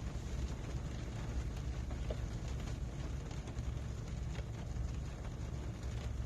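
Rain drops pattering on a car's roof and windshield, heard from inside the cabin as many fine ticks over a low, steady rumble.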